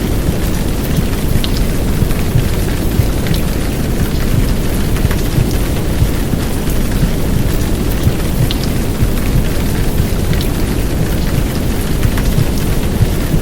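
Steady heavy downpour of rain, with scattered drop ticks over a deep, even rumbling noise. The noise is a womb-sound track of heartbeat and white noise mixed in under the rain.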